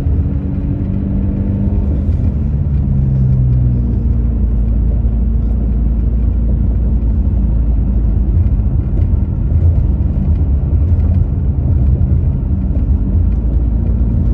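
Car interior road noise while driving: a steady low rumble of engine and tyres, with the engine note shifting in pitch during the first few seconds.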